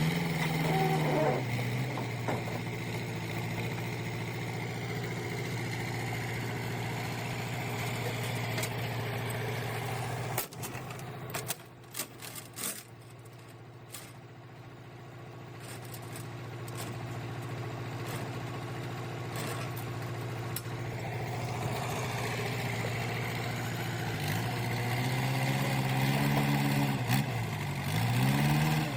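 Vehicle engine running steadily, its pitch rising and falling as it revs near the start and again over the last few seconds. A few sharp knocks come around the middle, and the engine is quieter for a while after them.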